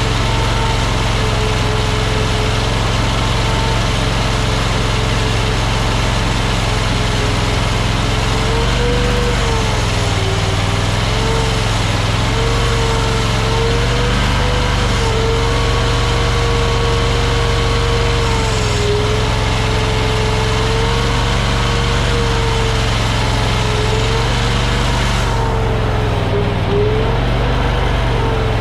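AGT LRT23 mini skid steer's engine running steadily as the machine works. A whine wavers up and down in pitch throughout.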